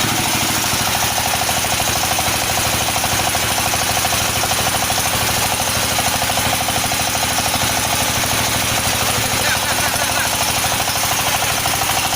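A floating fish-feed pellet machine (extruder) running steadily, a loud mechanical din with a fast, even pulsing.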